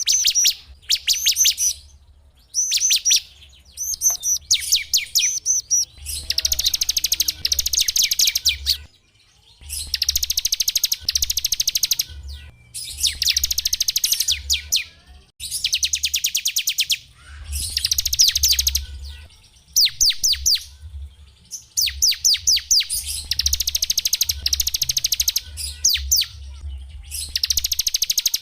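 Small songbirds singing in rapid high trills of fast repeated notes, in phrases of one to two seconds separated by short pauses.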